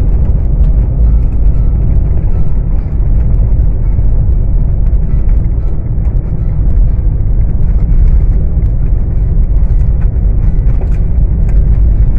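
Steady low rumble of a car driving, heard from inside the cabin: engine and tyre noise with no pauses.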